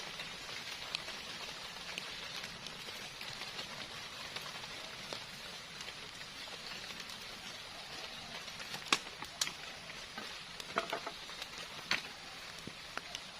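Steady hiss of heavy rain, with a handful of sharp clicks and knocks about two-thirds of the way in.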